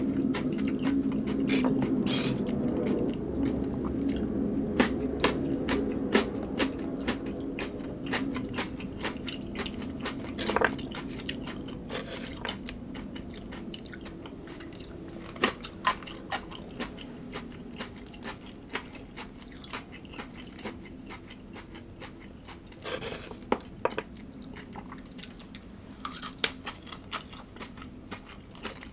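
A person chewing food close to the microphone, with many short crisp crunches and mouth clicks. A low hum underneath fades away over the first half.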